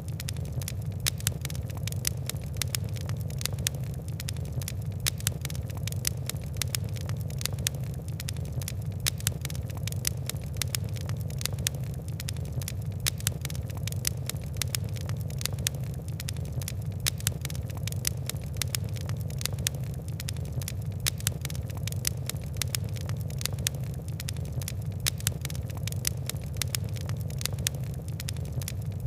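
Fire crackling: dense, irregular sharp pops and ticks from burning wood and coal over a steady low rumble of the flames.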